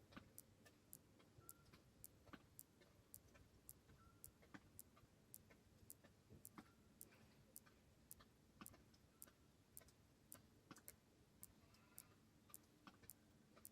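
Near silence with a faint, even ticking about two to three times a second, fainter irregular clicks between, over a low hum.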